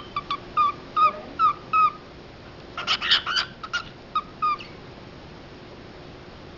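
Male cockatiel chirping: a run of short, repeated chirps, some bending up or down in pitch. A denser, harsher burst of calls comes about three seconds in, followed by a few more chirps.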